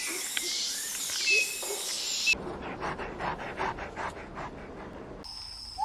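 An animal panting in quick, rhythmic breaths, about three a second, after a cut from a stretch of hissy outdoor ambience with faint chirps.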